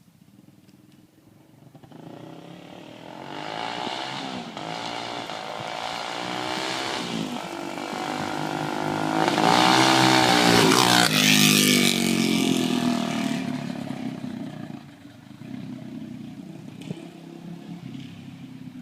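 Lifan LF200 GY-5 200cc single-cylinder motorcycle with an aftermarket CZR racing exhaust riding by. The engine comes in about two seconds in, grows louder with its pitch rising and falling, is loudest a little past halfway, then drops back to a quieter running sound near the end.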